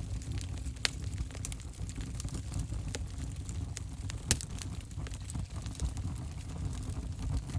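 Fire in a fireplace crackling: frequent sharp pops and snaps at irregular intervals over a low, steady rumble of burning, with one louder pop about four seconds in.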